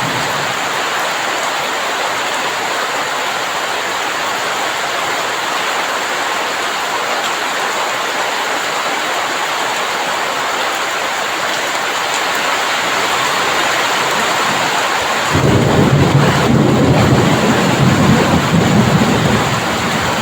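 Heavy rain falling in a steady hiss. About fifteen seconds in, a loud low rumble of thunder comes in suddenly and rolls on for several seconds.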